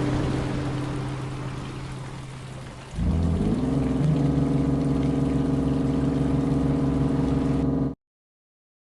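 A car engine starting about three seconds in, its pitch rising briefly as it catches, then running steadily with a pulsing beat until it cuts off abruptly near the end.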